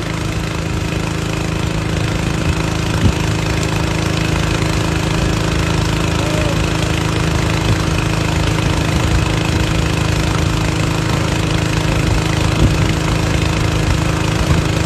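Air compressor running steadily at a constant pitch, with a couple of faint knocks.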